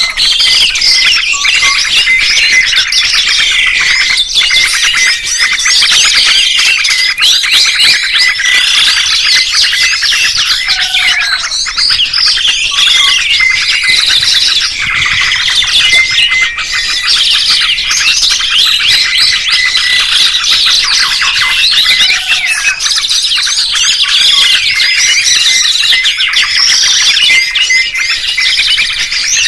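Dense chorus of songbirds chirping and trilling, with many fast, high-pitched calls overlapping without a break.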